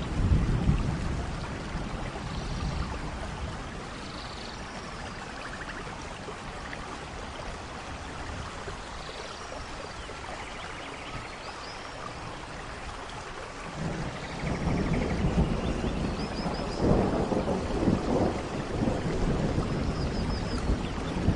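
Steady tropical rain with scattered short bird chirps and trills. A louder low rumbling comes in briefly at the start and again from about two-thirds of the way through.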